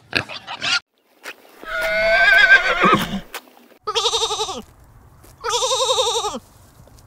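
A few short pig grunts at the start, then a lamb bleating three times in quavering calls, the first longer and falling away at its end.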